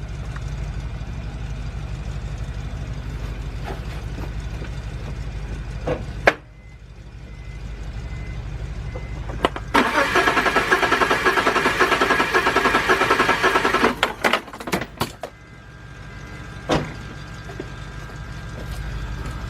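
BMW 328i engine cranking on its starter for about four seconds in the middle, without firing because the ignition coils are disconnected for a compression test. A steady low rumble runs before and after, with a few sharp clicks around the cranking.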